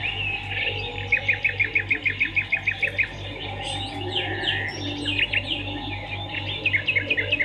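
Swiftlets twittering: high chirps, with a fast run of evenly spaced chirps about a second in and another near the end, over a steady low hum.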